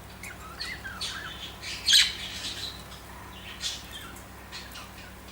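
Pet budgerigars chirping and chattering in short scattered calls, with one loud sharp squawk about two seconds in.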